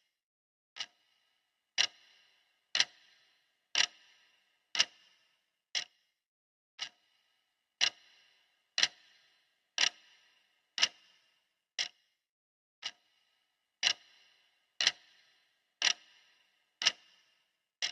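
Clock ticking steadily at one sharp tick per second, the ticking track of a countdown timer.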